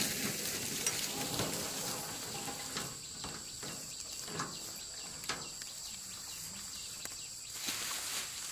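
Insects chirring steadily in a high pitch, with scattered short rustles and crunches of rice stalks being handled during the harvest.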